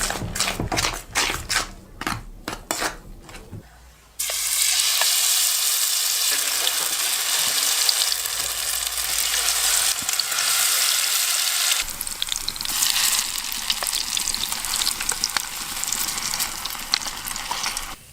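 Food frying in a hot pan: a steady sizzle that starts suddenly about four seconds in, after a run of short knocks and clicks.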